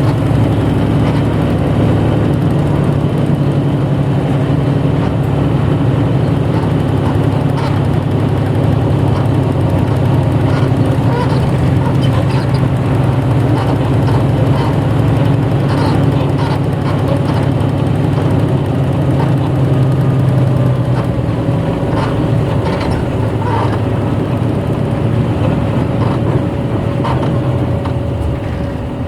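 Interior running sound of a 1994 Hino Blue Ribbon city bus, heard from inside the cabin: a steady diesel engine drone with light rattles. The engine eases off and quietens about two-thirds of the way through, and again near the end.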